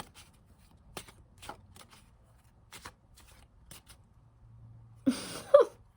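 Tarot cards being shuffled and handled: a scattering of soft flicks and taps as the cards are cut and moved. A brief vocal sound near the end.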